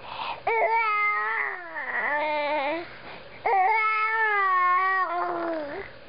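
A pet's two long, wavering sung calls, each rising then sliding down in pitch, in imitation of a sung 'whoa'.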